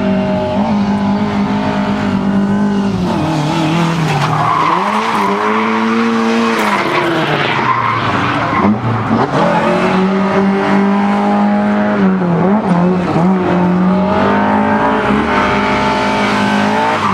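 A car engine driven hard at high revs, its pitch dropping and climbing back several times as the driver lifts, shifts and accelerates again, with the tyres squealing at times through corners.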